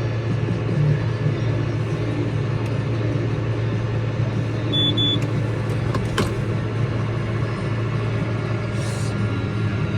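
Tractor engine running steadily with a low hum, heard from inside the cab. Two short high beeps sound about five seconds in, followed by a click.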